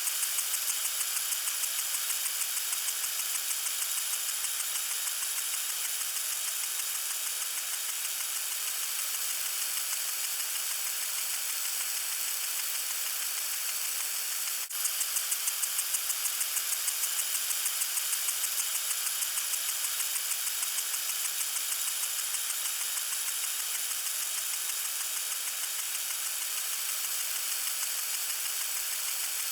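Garden sprinkler spraying water: a steady, high hiss with a fast, even pulsing, broken once by a brief dropout about halfway through.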